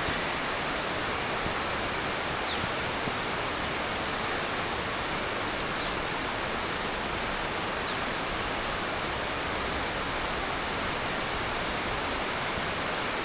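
Heavy tropical monsoon rain falling steadily, a dense even hiss. A few faint, short high chirps sound every couple of seconds over the rain.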